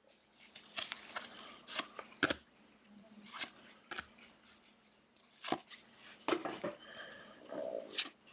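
Football trading cards being handled and sorted: irregular sharp clicks and rustles as cards slide and tap against one another.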